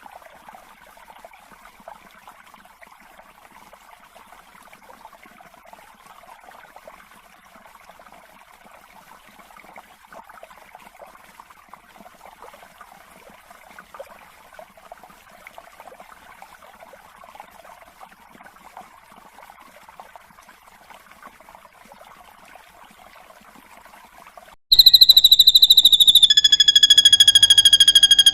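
Recorded drongo (srigunting) song used for bird mastering. A faint, rapid, continuous chatter runs for most of the time. About 25 s in, a loud, piercing whistle begins: a high tone that slides down slightly, then steadies over a lower second tone.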